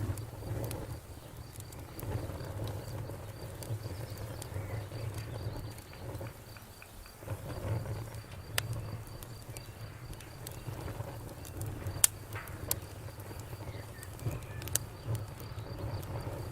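Campfire burning with a low rumble and scattered sharp crackles and pops from the burning wood, the loudest pop about twelve seconds in. A faint, high, evenly pulsing chirp runs steadily underneath.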